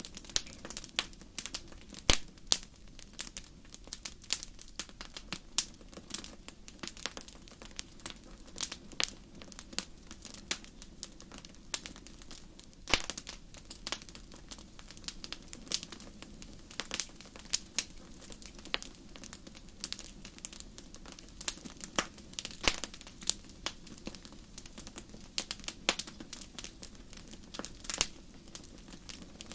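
Fire crackling in a fireplace: irregular sharp pops and snaps, a few of them loud, over a steady low rush of the flames.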